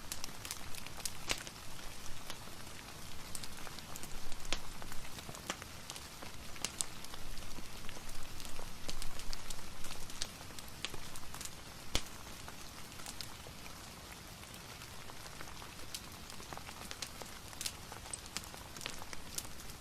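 Steady rain mixed with a crackling fireplace fire: an even hiss of rain with frequent sharp pops and crackles scattered through it.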